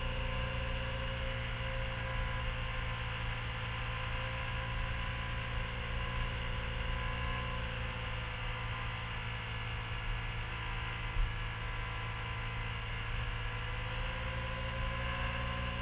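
Motorcycle engine running at a steady cruise, a constant drone that barely changes in pitch, with one short bump about eleven seconds in.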